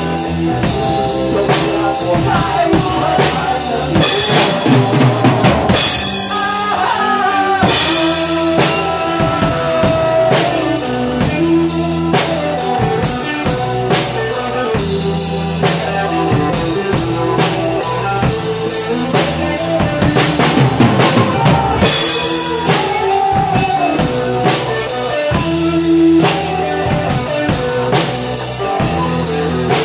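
Drum kit played in a steady rock beat of kick, snare and rimshots over a backing track with guitar, with cymbal crashes about 4, 6, 8 and 22 seconds in.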